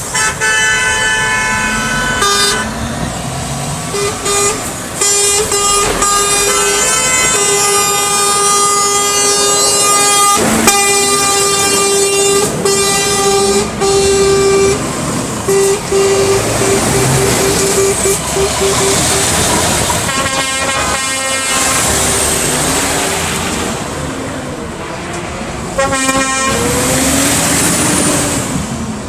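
Truck air horns honking in a run of long and short blasts. There is a break after about 19 seconds, then further short bursts near the end.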